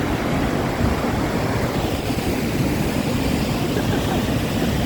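Waterfall and fast river current rushing steadily.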